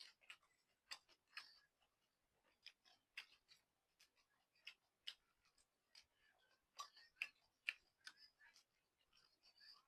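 Faint eating sounds while noodle soup is eaten: soft, irregular mouth smacks and clicks, several a second.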